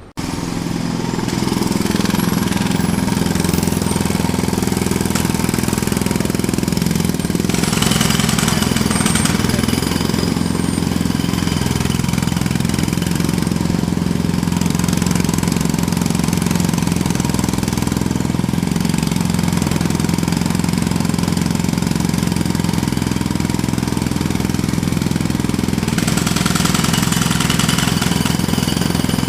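Jackhammer hammering continuously at a steady rate, cutting in abruptly at the start; its high rattle gets brighter for a few seconds about a third of the way in and again near the end.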